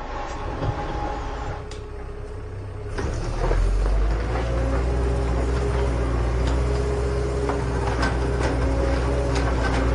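A vehicle engine sound, a steady low rumble with a hum, that gets louder about three seconds in, with a few light clicks over it.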